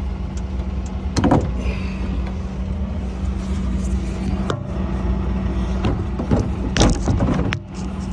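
Clicks and knocks from a cab filter cover panel being lined up and its quarter-turn fasteners fitted, loudest about a second in and again around six to seven seconds. A steady low hum runs underneath.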